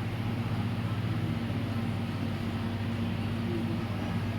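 A steady low hum with a constant drone and background noise that holds level throughout.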